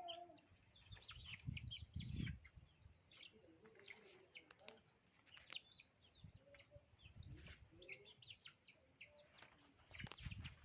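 Faint, repeated short high chirps and peeps from chickens, with a few low thuds.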